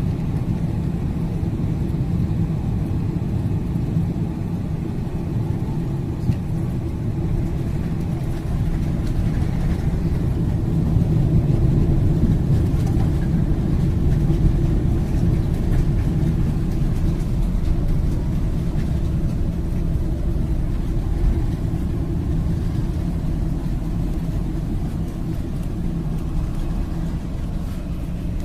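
Airliner noise: a steady low rumble that swells a little in the middle.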